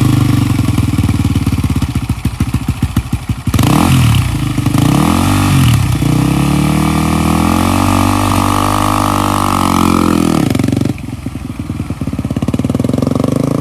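Dirt bike engine running loudly close by: a couple of quick throttle blips about four seconds in, then a long rev that climbs and falls back over about five seconds, settling to a lower, rougher running near the end.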